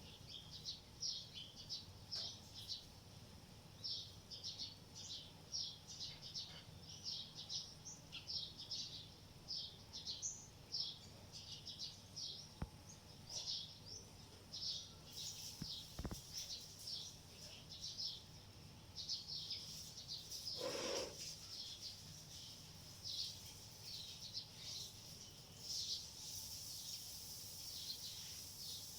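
Small birds chirping over and over: short, high chirps, several a second, with a brief lower sound about three-quarters of the way through.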